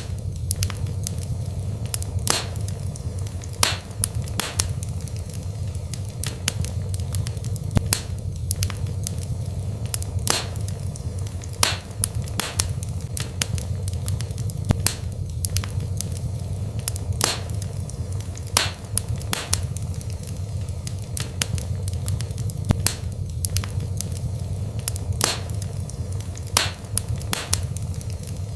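Wood fire burning in a fireplace: a steady low rumble with irregular sharp crackles and pops from the burning logs, about one or two a second.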